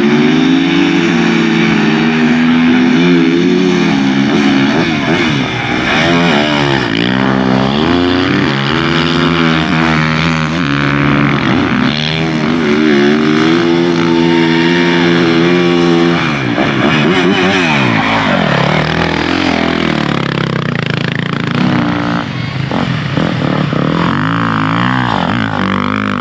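Several motorcycle engines revving, their pitch rising and falling as the bikes accelerate and back off.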